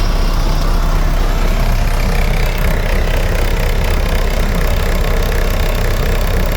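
2018 Mack MP8 inline-six diesel engine idling steadily with an even, rapid low pulse; a used engine in good running order at 660,000 miles.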